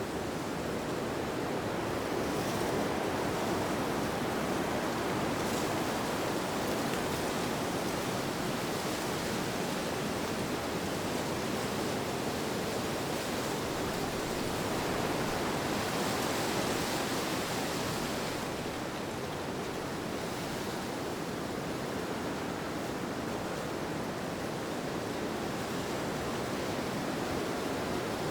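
Steady rushing wind, an even hiss that swells gently and brightens a little about two thirds of the way through.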